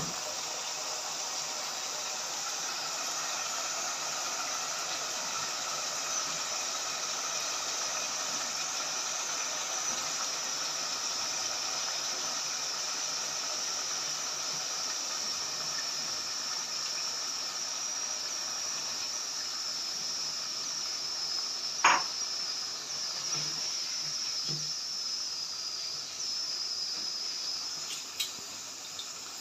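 Chicken masala frying in ghee in a pot, a steady sizzling hiss, with one sharp knock and a couple of soft thumps as potato pieces go into the pot.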